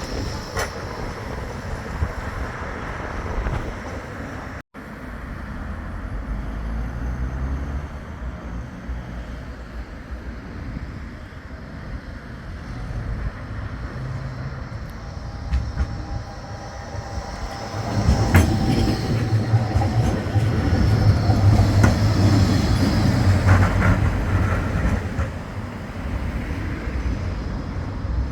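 Bombardier Flexity 2 light-rail tram running on its rails, with steel wheel-on-rail rumble and clatter. The sound cuts abruptly about five seconds in and grows louder with a low hum from about eighteen seconds in.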